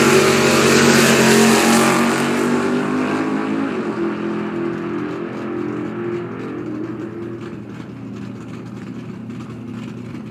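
Drag-racing cars, a 540-cubic-inch 1967 Chevelle and a Vega, running hard down the strip. The engine sound is loudest at the start, then fades steadily as they pull away.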